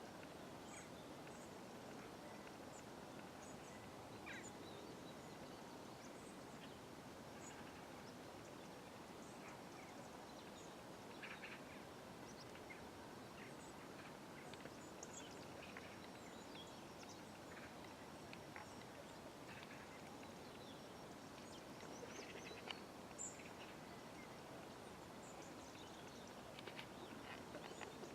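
Faint outdoor ambience: a steady low background hum with many short bird chirps scattered throughout.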